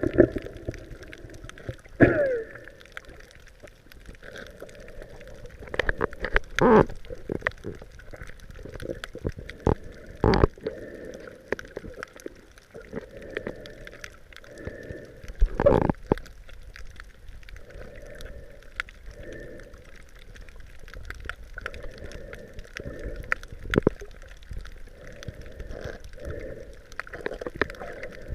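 Water gurgling and sloshing around a camera held at or under the surface while snorkeling, with scattered sharp clicks and knocks.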